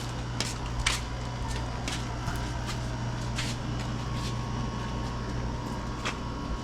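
Scattered light clicks and taps of fishing rods and gear being handled, over a steady low hum.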